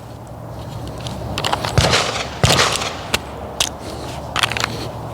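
A handful of sharp clicks and knocks at irregular intervals, the loudest about two and two and a half seconds in.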